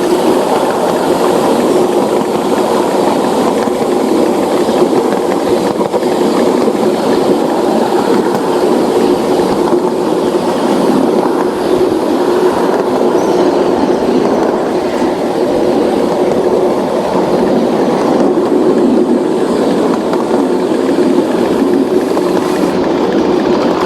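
A train running steadily along its track, with a constant hum over the rolling wheel noise.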